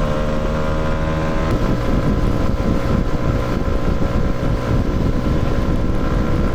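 Motorcycle engine running at road speed with wind buffeting the microphone. The engine note rises slightly, then shifts about a second and a half in.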